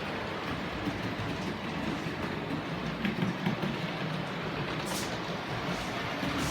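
Model railway locomotive running along the track: a steady rumble of its motor and wheels on the rails, with a few faint clicks.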